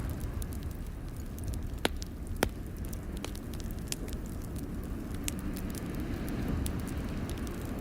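Wood fire crackling in a fireplace: a steady low rumble with irregular sharp snaps and pops, and two louder pops about two seconds in.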